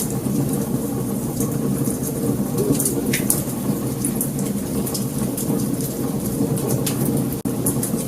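Wood fire burning, a steady low rumble of flames with frequent sharp crackles and pops from the burning logs. The sound cuts out for an instant about seven seconds in.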